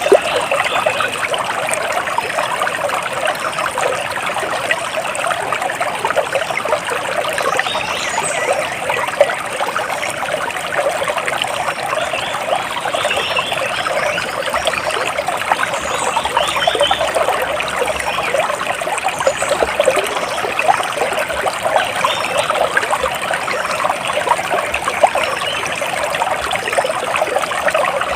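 Water trickling and splashing steadily, a dense even patter with no pauses. Faint bird chirps come through now and then above it.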